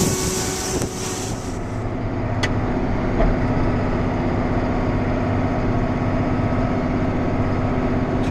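Diesel engine of a John Deere harvest machine running steadily, heard from inside the cab. A loud hiss at the start cuts off about one and a half seconds in, with a small click and a soft thump shortly after.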